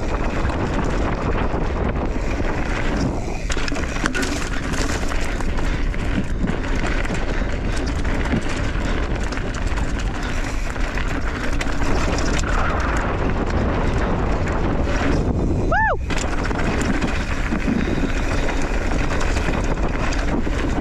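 Wind buffeting the microphone and tyres rolling over dirt as a hardtail mountain bike is ridden fast down a jump trail, with a brief high squeal about sixteen seconds in.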